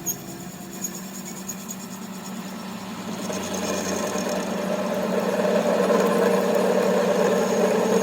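A machine running steadily, with a constant low hum, growing louder from about three seconds in.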